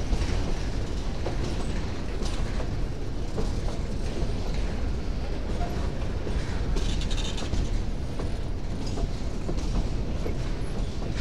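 Empty freight boxcars rolling past at close range: a steady low rumble of wheels on rail with scattered clicks and creaks from the cars. A short higher scraping sound comes about seven seconds in.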